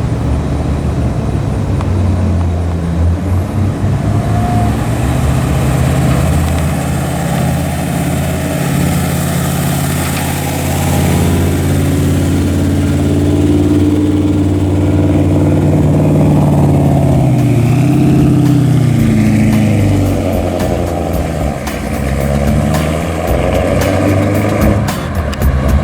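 Car's 383 stroker V8 running through headers and a full exhaust with a deep rumble. The engine pitch rises about halfway through and falls again.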